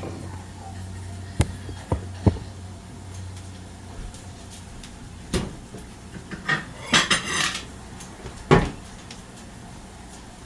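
Dishes and cutlery being handled: a few separate clacks and knocks, with a short spell of ringing clatter about seven seconds in.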